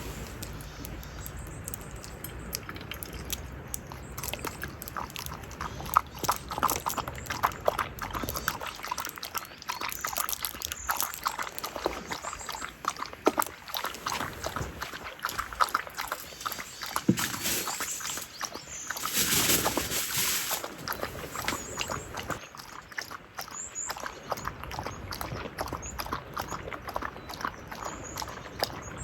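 A dog eating, with a quick irregular run of small chewing and crunching clicks. A short hiss comes about two-thirds of the way through.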